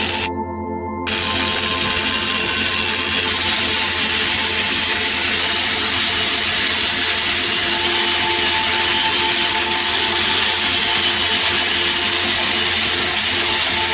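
A power tool running steadily, a continuous machine whir with a few steady tones in it. The sound breaks off briefly under a second in and then resumes.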